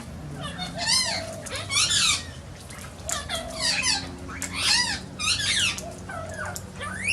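Young sulphur-crested cockatoos giving a run of short, wavering, whining cries, about one a second.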